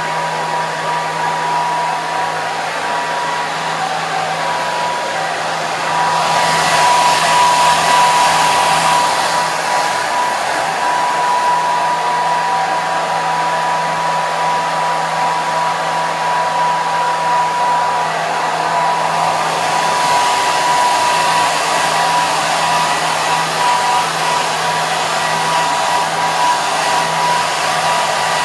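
Hair dryer blowing continuously: a steady rush of air with a thin whine and a low hum beneath it. About six seconds in it grows louder and brighter, then eases back a few seconds later to a steady run.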